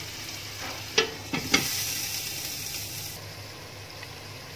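Onion, tomato and spice masala sizzling in oil in a wok, with three sharp knocks about a second in.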